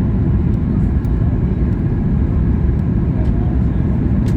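Passenger airliner cabin noise: a loud, steady, low rumble of engines and rushing air.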